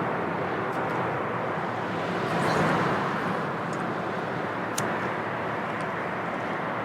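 Steady hiss of road traffic, swelling as a vehicle passes about two and a half seconds in, with a few faint sharp ticks.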